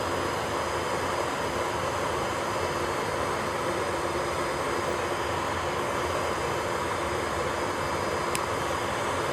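Electric nail-care equipment whirring steadily, a constant motor hum with a hiss, as used for drill-off and cuticle drilling. Two light clicks come near the end.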